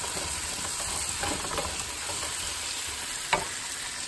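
Onions, tomato and spices sizzling in hot oil in a non-stick wok while a wooden spatula stirs and scrapes through them, with one sharp knock a little over three seconds in.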